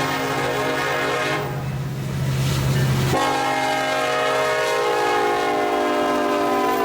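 Union Pacific freight locomotive's air horn blowing a long, loud chord over the train's running noise, the chord changing abruptly about three seconds in and its pitch sliding later. The horn sounds funny in the bitter cold.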